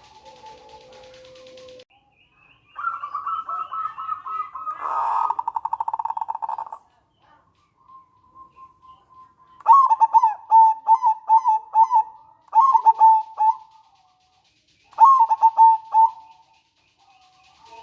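Zebra dove (perkutut) calling. A quick rattling trill comes from about three seconds in, then two loud bursts of staccato cooing notes, near the middle and again near the end.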